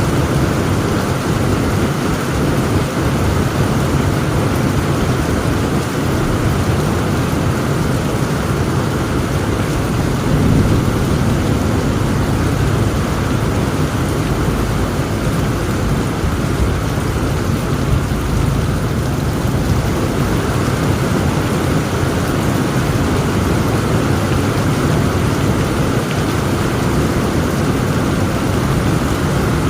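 Heavy rain falling steadily, with a low rumble of thunder underneath and a slight swell in the rumble about ten seconds in.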